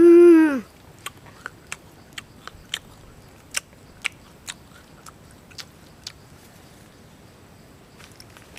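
Crunching as crisp green guava is chewed: a dozen or so sharp, separate crunches over about five seconds. Just before them comes a short hummed vocal sound that falls in pitch.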